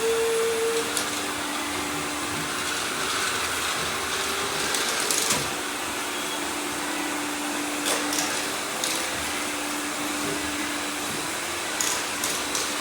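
Robot vacuum cleaners running together: a steady whir of motors and brushes with a faint hum. A few light clicks and knocks come through it at intervals.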